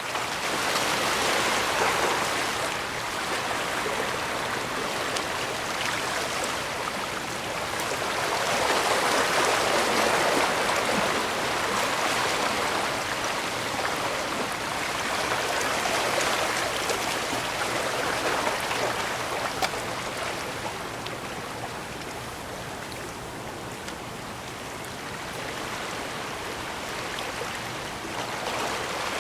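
Bay waves washing in against the shore, a steady rush of water that swells and eases every several seconds.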